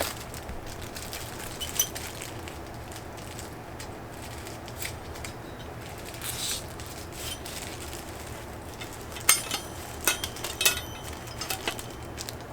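Packaging rustling and crinkling as a small wind chime is unwrapped. In the second half, several light strikes with short ringing tones: its chimes knock together as it is lifted out. A steady low hum sits underneath.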